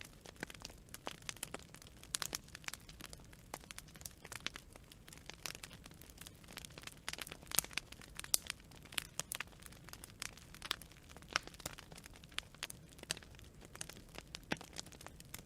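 Wood fire crackling: many small irregular pops and snaps over a low steady hiss of burning.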